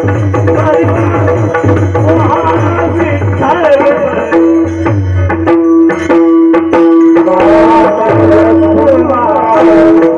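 Devotional singing accompanied by a pakhawaj drum, over a steady held note. Singing comes in about a third of the way through, and a quick run of pakhawaj strokes sounds around the middle.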